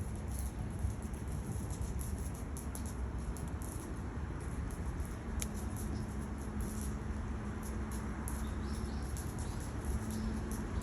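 Wood fire crackling in a stainless steel Bushbox XL fire box, with frequent small sharp pops over a steady low rumble.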